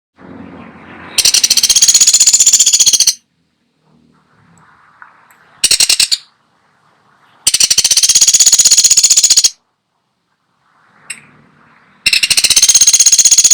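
Woodpecker (pelatuk sampit) giving loud, rapid high rattling calls: three bursts of about two seconds each and one short burst, separated by pauses.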